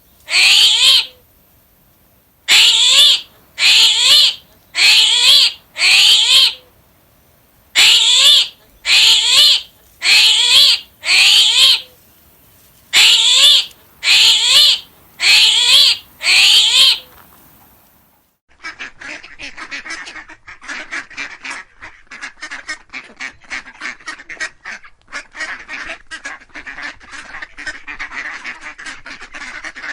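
Waterfowl calling: loud, evenly repeated calls about a second long, one and then three groups of four, for the first half, then from about the middle a dense run of rapid, overlapping short calls.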